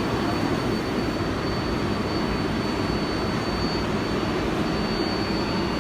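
Steady noise of an R188 subway train on the 7 line, even throughout, with a thin steady high whine above it.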